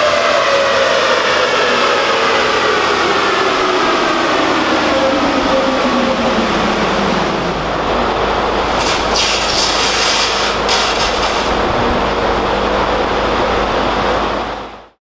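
Turbocharged Subaru Crosstrek's FB20 flat-four on a chassis dyno winding down after a full-throttle pull. Several whines fall steadily in pitch for about seven seconds and give way to a steady low rumble, with a few short hisses a little past the middle. The sound cuts off just before the end.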